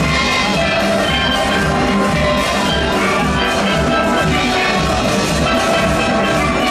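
Steel band playing: many steelpans sounding together in full ensemble over a steady drum beat.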